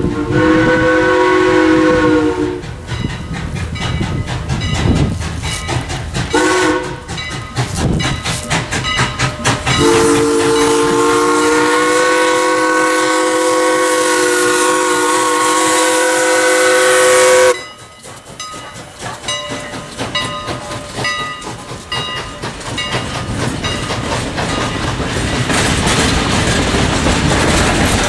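Steam locomotive chime whistle, several notes sounding together. A long blast ends just after the start, a short toot comes about six seconds in, and a long blast runs from about ten to seventeen seconds: the long-short-long ending of a grade-crossing signal. Then the train rolls past with wheels clattering over the rail joints.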